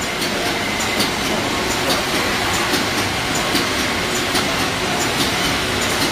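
Automatic packaging machinery running, a steady mechanical clatter with sharp clicks repeating about once or twice a second as it works.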